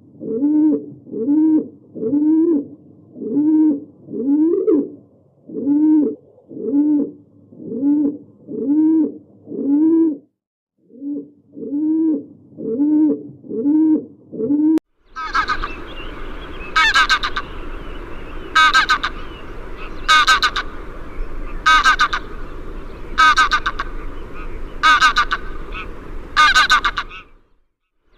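Two animal recordings back to back. First, a low call repeated evenly about twice a second, each call rising then falling in pitch, with a short pause partway through. Then, after a sudden change to a noisier background, loud goose-like honks about every second and a half.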